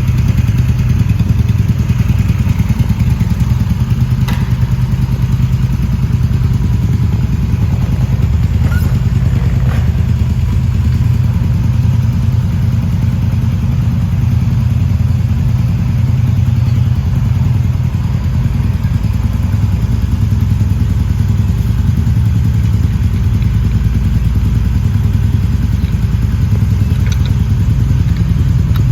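Motorcycle engine idling steadily, with a few faint clicks and knocks over it.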